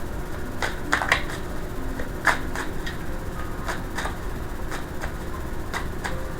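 Tarot cards being shuffled and handled: irregular sharp clicks and snaps, about a dozen, two of them louder about a second in and just past two seconds.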